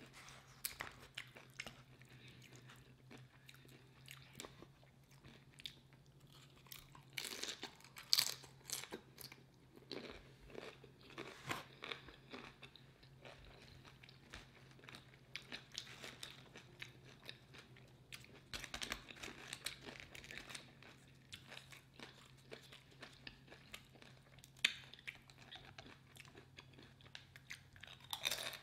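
Close-miked eating: a person chewing and crunching tortilla chips and burrito bowl food, with irregular crunches and wet mouth smacks, a few louder than the rest. A faint steady low hum runs underneath.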